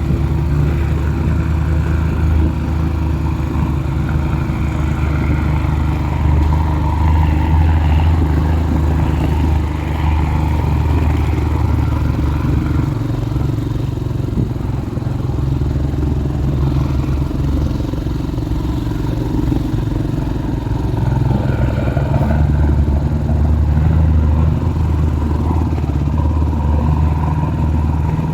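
Heavy vehicle's engine running steadily, its level swelling and easing a little.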